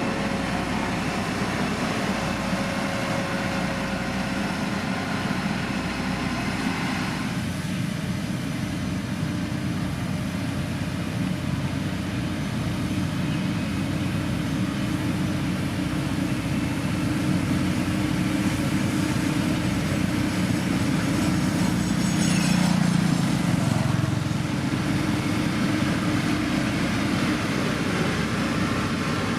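Heavy road-construction machine's diesel engine running steadily under work. Its tone shifts about seven seconds in, and it grows briefly louder a little past the twenty-second mark.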